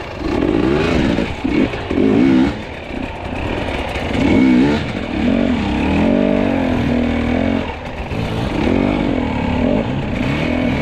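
Fuel-injected two-stroke enduro dirt bike engine revving up and down repeatedly as the throttle is worked on the trail.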